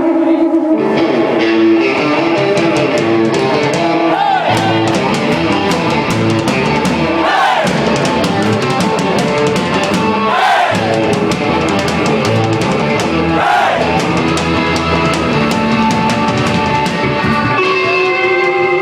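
Live rock band playing: electric guitar and drum kit driving a steady beat, with a sung vocal line coming in now and then.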